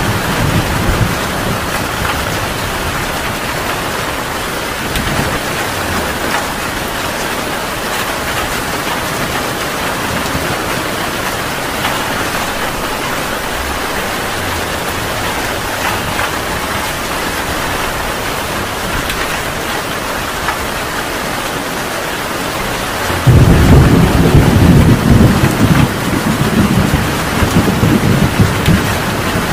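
Heavy rain falling steadily. Near the end a loud, low rumble of thunder breaks in suddenly and rolls on in surges.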